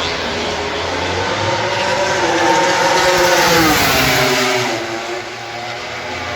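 A MotoGP race motorcycle passing at speed, its engine note rising in pitch and loudness as it approaches and dropping away as it goes past, loudest a little past the middle.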